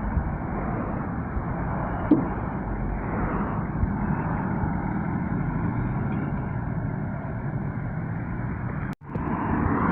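Road traffic: steady engine and tyre noise of passing vehicles, with a sharp tap about two seconds in. Near the end the sound cuts out for a moment and comes back a little louder.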